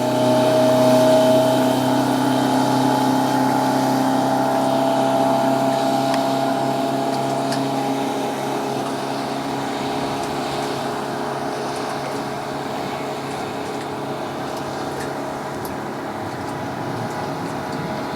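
Boat's MerCruiser inboard/outboard (sterndrive) engine running steadily at low speed, easing slightly quieter over the first several seconds.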